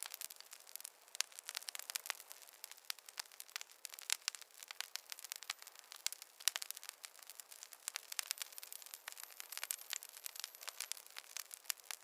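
Wood fire in a fireplace crackling steadily, a dense run of small snaps with louder sharp pops scattered throughout.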